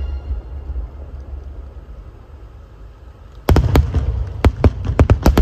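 A low rumble of fireworks dying away, then about three and a half seconds in a sudden run of sharp, rapid fireworks cracks and bangs.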